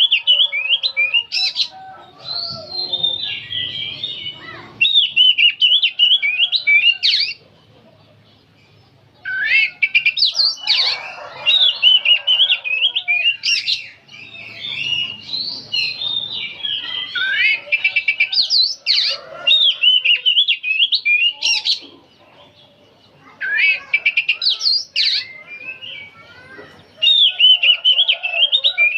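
Oriental magpie-robin singing a rapid, varied song of quick whistles and chattering notes in long loud phrases, broken by two short pauses.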